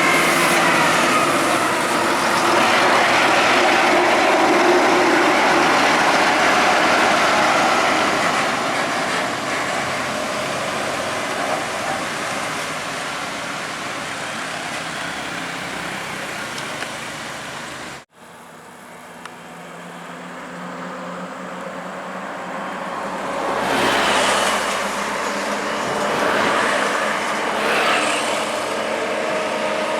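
Heavy trucks driving past on a road: engine and tyre noise that fades away, then, after an abrupt cut about halfway through, builds again as more trucks pass, swelling twice near the end.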